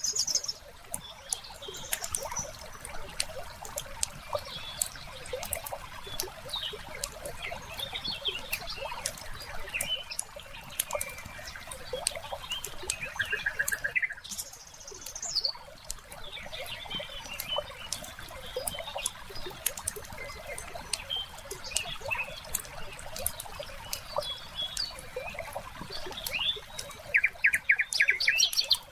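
Wood fire crackling with a steady scatter of small pops and snaps, while songbirds chirp now and then, including a quick trill near the middle and a louder one near the end.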